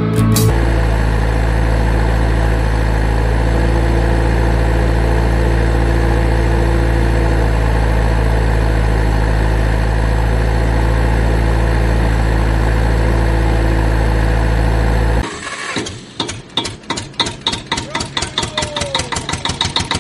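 An engine idling steadily at an even pitch. About fifteen seconds in it cuts to a fast, rhythmic pulsing of several beats a second.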